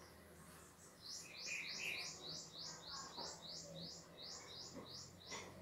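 A bird chirping in a quick, even run of high chirps, about four a second, starting about a second in and stopping shortly before the end.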